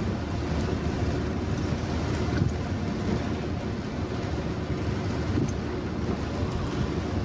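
Steady rushing noise of heavy rain mixed with a car driving on wet streets, even throughout with no single loud event.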